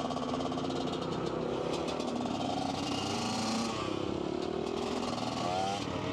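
Dirt bike engine running while riding, its pitch rising and falling with the throttle. The rider says it stutters and runs badly, and thinks the piston is due for replacement, or perhaps the air filter is to blame.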